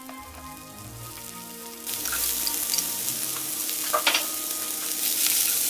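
Diced vegetables frying in avocado oil in a hot non-stick pan. The sizzle jumps up suddenly about two seconds in, as cubed mini king oyster mushrooms go into the pan. A few clicks of pieces landing follow around four seconds in.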